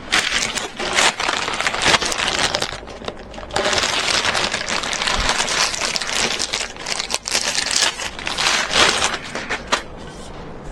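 Loud rustling and crinkling handling noise close to the microphone, with a short lull about three seconds in.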